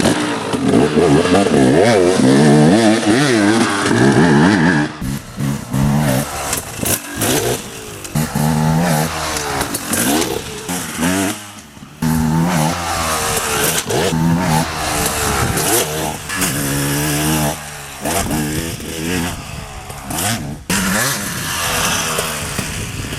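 Dirt bike engine revving, its pitch rising and falling again and again as the throttle opens and closes, with a few abrupt breaks.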